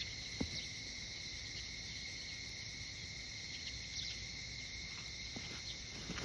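Chorus of insects, crickets or similar, trilling steadily at a high pitch, with a faint tick or two.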